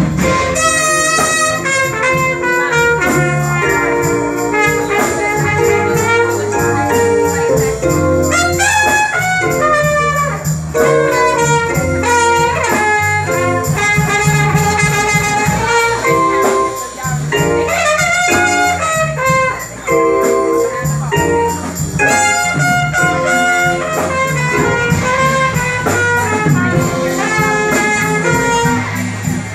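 Live jazz band playing, with a brass horn carrying a bending, ornamented melody over a stepping bass line.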